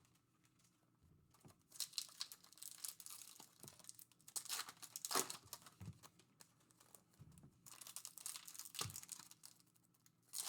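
Foil trading-card pack wrappers being torn open and crinkled, in irregular bursts after a near-silent first second.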